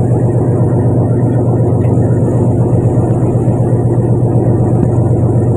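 A fishing boat's engine running steadily, a constant low drone that does not change.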